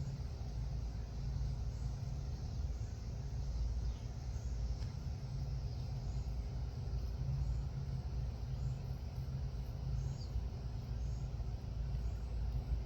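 Outdoor background with a steady low rumble and a few faint, short, high bird chirps scattered through it; no dove coo stands out.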